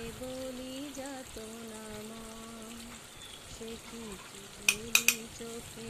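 Chicken curry sizzling gently in a kadai, with a low wavering tone humming underneath. Three sharp clinks of kitchen utensils come close together near the end.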